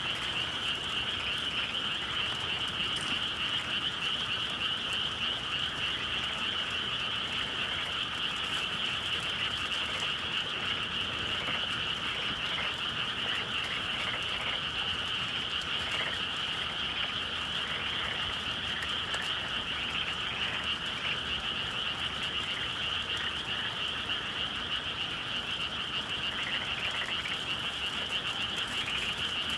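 A dense chorus of many frogs calling over one another without pause, a steady high-pitched churring wall of sound.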